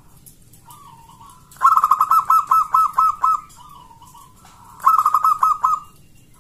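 Zebra dove (local perkutut) calling: a soft coo, then a loud, rapid string of about ten cooing notes, a short pause, and a second string of about six notes.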